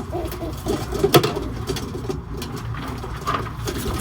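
White homing pigeons cooing, with one sharp knock about a second in.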